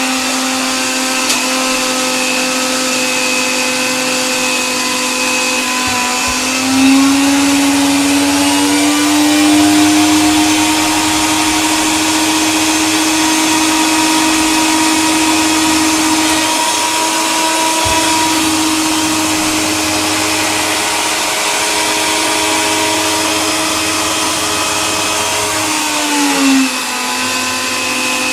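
Electric coffee grinder motor running steadily with a whine and grinding noise. Its pitch rises slightly about a quarter of the way in, holds, and drops back near the end.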